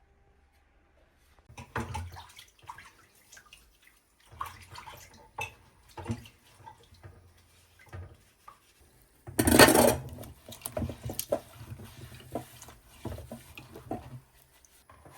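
Kitchen clatter of dishes, pots and utensils being handled, with a loud rushing noise lasting about a second about nine seconds in.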